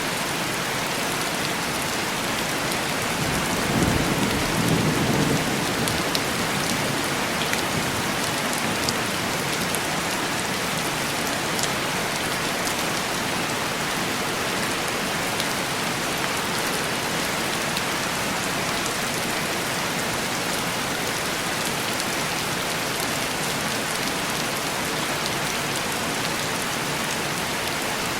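Steady heavy rain on a window pane, with a low rumble of thunder about four seconds in that fades after a couple of seconds.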